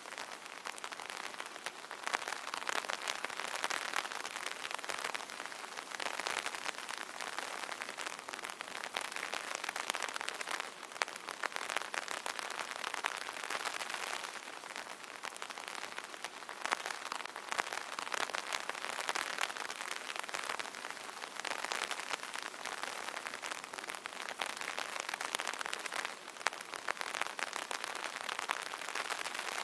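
Steady light rain pattering on an umbrella canopy, a dense stream of small drop taps that swells and eases every few seconds.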